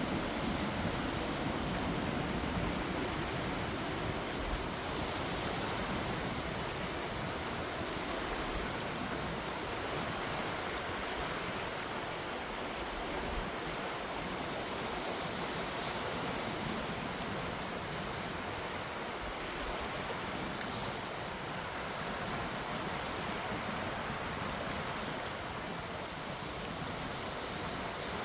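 Gentle sea waves washing: a steady rushing noise with no distinct breaking crashes.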